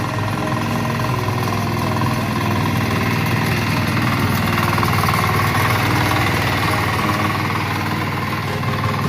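A power weeder's Kama diesel engine running steadily at idle.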